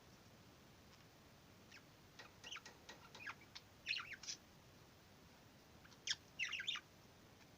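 Male budgerigar chattering: quick, short, high chirps and squeaky calls in two bursts, the first starting about two seconds in and the second near the end.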